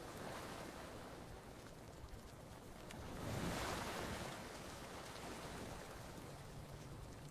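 Gentle ocean waves washing onto a beach: a steady surf hiss that swells to one louder wash about halfway through and then eases back. A few faint campfire crackles tick through it.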